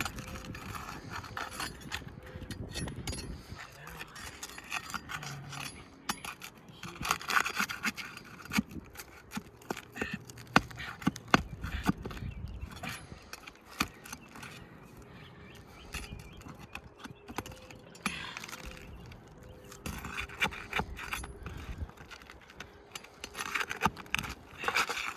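Asphalt roof shingles being pried up with a metal tool: irregular scraping with scattered clicks and knocks as the nails and the sealant strip are worked loose.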